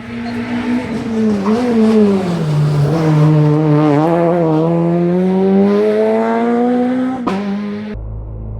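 Rally car engine driving through a stage at close range: the revs drop for a corner and then climb steadily as it accelerates away. About seven seconds in, the sound cuts abruptly to a duller, lower rumble.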